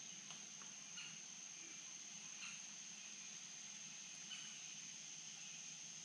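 Faint outdoor ambience: insects keep up a steady, high-pitched drone, with a few short, high chirps scattered through it, over a soft hiss from the flowing stream.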